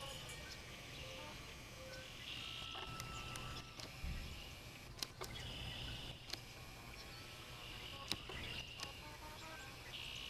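Faint backyard ambience with insects trilling in high-pitched stretches of a second or so that come and go, over a low steady rumble, with a few sharp clicks.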